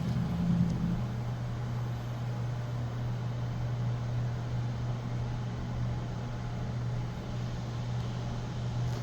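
Otis elevator car travelling between floors, heard from inside the cab: a steady low hum with an even airy rush and no knocks or changes.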